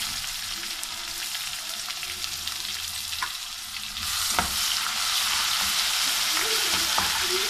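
Sliced onions and ginger-garlic paste sizzling in hot oil in a metal pot, the sizzle growing louder about four seconds in as the paste is stirred into the onions, with a couple of sharp clicks of the spoon against the pot.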